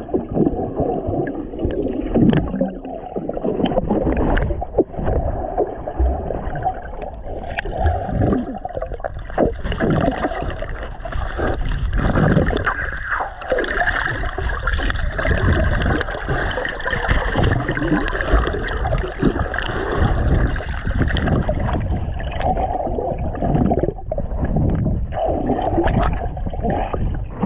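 Water sloshing and splashing close to the microphone, muffled, with irregular gurgles and knocks, as from a person bathing in the water.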